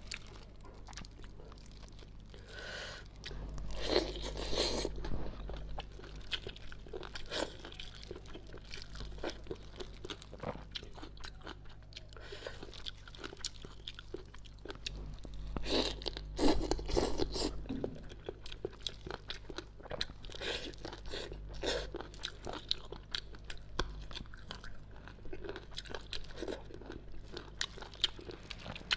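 Close-up chewing and crunching of braised fish whose bones are crunchy cartilage, with many small wet clicks. The crunching comes in louder bouts about four seconds in and again around sixteen to seventeen seconds.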